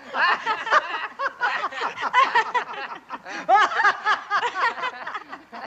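Several people laughing together, their voices overlapping.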